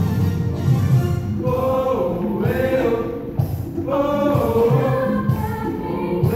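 A choir singing, holding long wavering notes over a low accompaniment.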